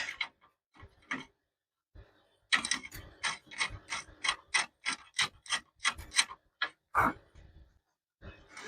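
Hand ratchet wrench clicking in quick, regular strokes, about three a second, starting a couple of seconds in and stopping about seven seconds in, with a few single clicks around it.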